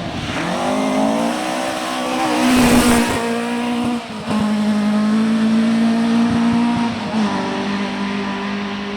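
Rally car engine revving hard as it accelerates, its pitch climbing over the first few seconds, with a loud rushing burst about three seconds in. A brief drop near four seconds and another near seven seconds, like gear changes, before it holds steady.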